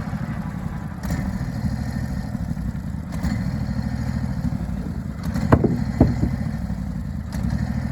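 Portable sawmill's gasoline engine running steadily during a wide cut, with two sharp knocks a half-second apart about two-thirds of the way through.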